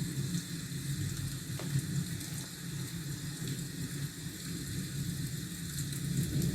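Steady rain hiss with a low rumble underneath.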